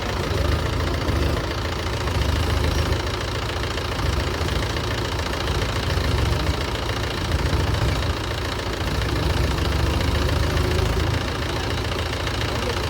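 Tractor diesel engine running hard and steadily, a low drone that swells and eases every second or two.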